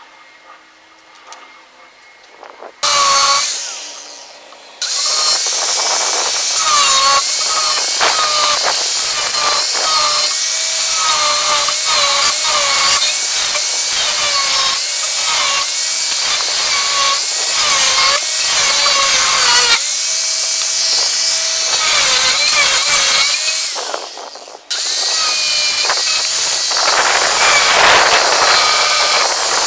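Power tool working the steel of a saw blade, running in loud, noisy stretches with a wavering whine that shifts with the load. It starts about three seconds in, drops away briefly, runs steadily, cuts out near the end and starts again.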